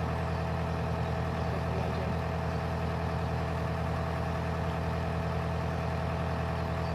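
Narrowboat engine running steadily while the boat is under way, a low even drone.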